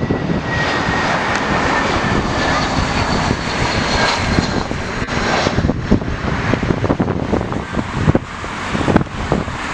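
Engines of a passing airliner, a loud, steady rush with a faint whine that falls slowly in pitch over the first few seconds. Wind buffets the microphone throughout.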